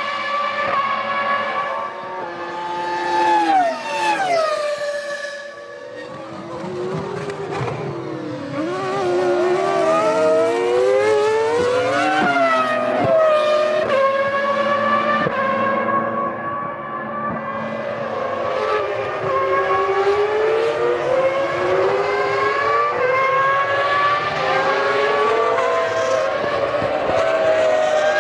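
Formula One cars' 3.0-litre V10 engines at racing speed, their high-pitched notes rising and falling through gear changes. Pitch drops sharply a few seconds in as a car brakes and downshifts. Several engines overlap in the middle as cars pass one after another.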